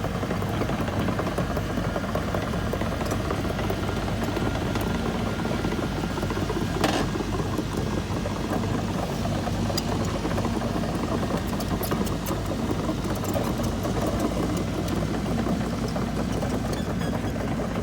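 Engine running steadily with a low, even drone, and a single brief click about seven seconds in.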